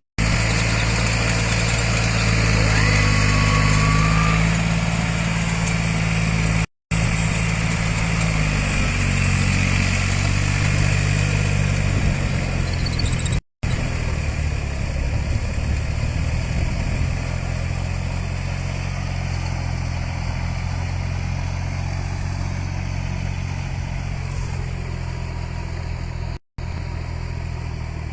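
New Holland 47 hp tractor's diesel engine running, its pitch shifting with engine speed in the first seconds and again about seven seconds in, then holding steady. The sound drops out briefly three times.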